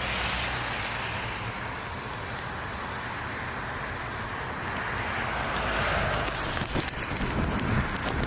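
Steady jet aircraft engine noise, swelling a little from about five seconds in, with gusty wind rumbling on the microphone.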